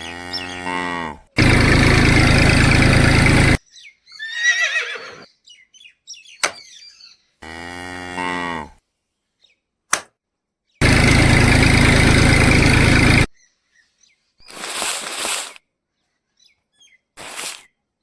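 A cow mooing twice, once at the start and again about seven seconds later. Each moo is followed by about two seconds of loud, even hissing noise, with shorter scattered sounds in between, in a repeating edited pattern.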